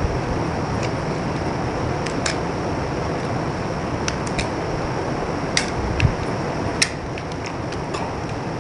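Knife cutting into dry bar soap: a scattering of short, crisp clicks and cracks at irregular intervals, over a steady hiss.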